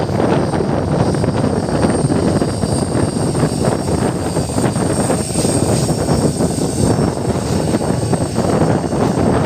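A train rolling past at speed: a steady loud rumble of wheels on rails, thick with rapid clatter.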